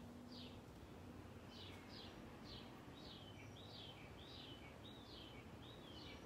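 Faint bird chirps: a string of short high notes, some falling and some rising then falling, one near the start and then about two a second from about a second and a half in, over a faint steady outdoor hiss.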